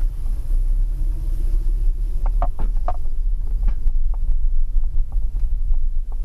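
Steady low rumble, with a few faint clicks about two to three seconds in.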